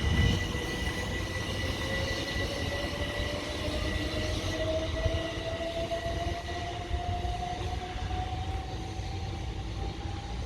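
Southern Class 377 Electrostar electric multiple unit pulling away from the platform. Its traction motor whine rises slowly and steadily in pitch as it gathers speed, over a low rumble of wheels on rail.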